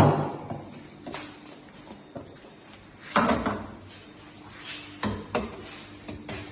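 A handful of separate knocks and clinks of metal and crockery being handled at an espresso machine, the loudest at the very start and about three seconds in.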